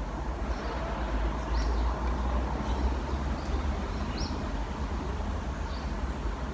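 Steady low rumble with a few short high chirps, about a second and a half in and again about four seconds in.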